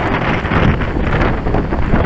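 Wind buffeting the microphone: a loud, gusty rush that swells and dips without pause.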